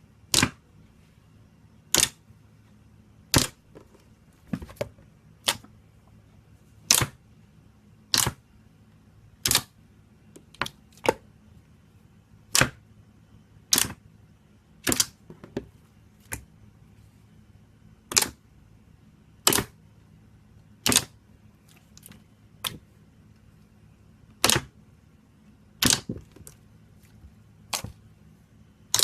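Slime making sharp popping clicks, about one every second and a half, some in quick pairs with fainter pops between.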